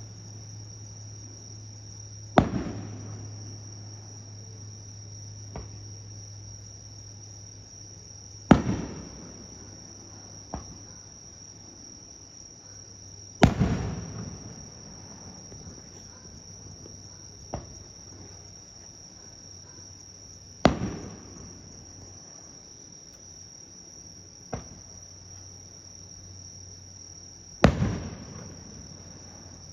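Aerial firework shells launched one at a time: a small launch thump, then about three seconds later a loud bang with a rumbling tail as the shell bursts, five bursts in all. A steady high insect trill runs underneath, and a low hum fades out about two-thirds of the way through.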